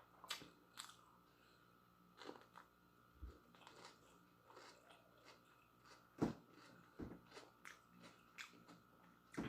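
Faint close-up chewing and biting, with scattered soft crunches and mouth clicks; the loudest comes about six seconds in.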